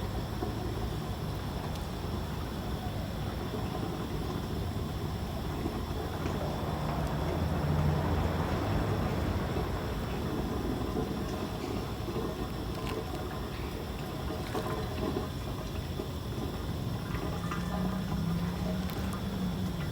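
Engine oil pouring in a steady stream from the truck's opened oil-pan drain into a drain pan. A low hum swells in the background around eight seconds in and again near the end.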